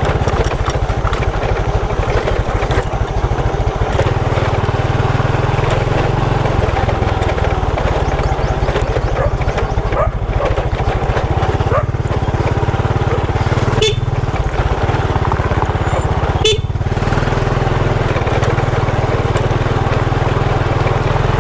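Motorcycle engine running under way while riding, its note changing a few times as the throttle or gear changes, with a few short clicks along the way.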